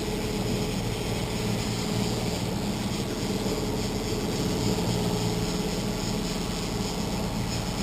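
Boat's engine running steadily, an even hum that does not change in pitch or loudness.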